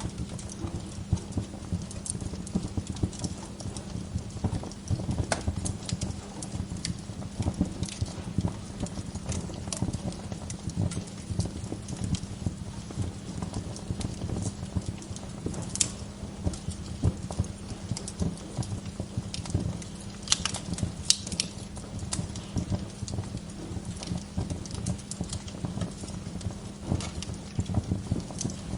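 Wood fire crackling steadily, with frequent sharp pops of burning wood over a low rumble of flame; a short run of louder pops comes about two-thirds of the way through.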